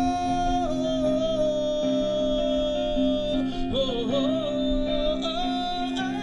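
Live rock band playing a slow song: a long held melodic note that steps down, then wavers and slides, over sustained guitar chords.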